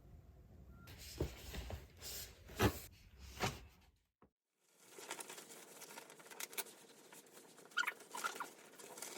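Light scratching and pattering from pets moving about, with a few sharper knocks in the first half and a brief break in the sound about four seconds in.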